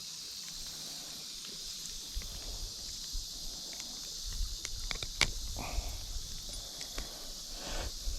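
A steady, high buzz of insects, with scattered clicks, knocks and rustles from close by starting about two seconds in; the sharpest click comes about five seconds in.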